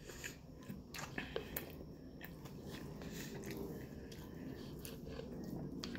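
A person chewing food close to the microphone, with scattered small clicks, most of them in the first two seconds.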